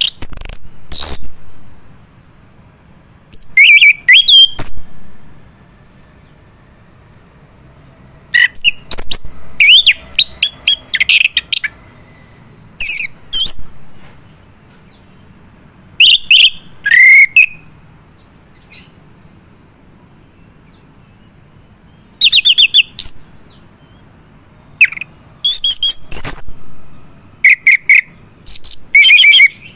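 Male orange-headed thrush singing loud, varied phrases of quick whistled and chattering notes, about eight bursts with pauses of one to several seconds between them.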